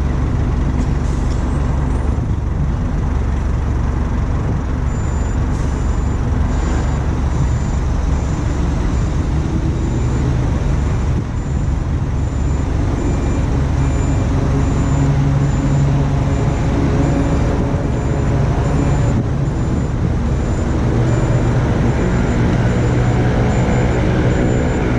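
Heavy diesel engine running loud and steady, its revs rising somewhat around the middle and again near the end. A faint high beep repeats at an even pace, a little under twice a second, from about five seconds in.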